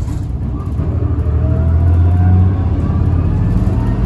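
Tokyu city bus heard from inside the cabin: a heavy drivetrain rumble with a thin motor whine that rises in pitch through the middle. The whine is the abnormal motor noise this bus is known for.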